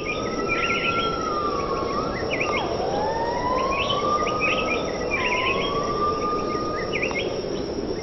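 Tropical rainforest ambience: many short bird chirps and whistles over a steady hiss of insects, with one long whistled tone that slowly wavers in pitch, dips twice, and stops about seven seconds in.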